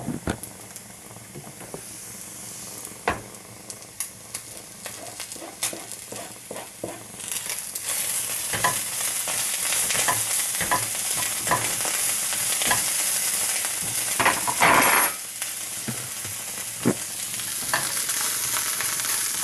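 Chicken pieces and lardons frying in a pan, sizzling, with a utensil stirring and knocking against the pan. The sizzle grows much louder about seven seconds in.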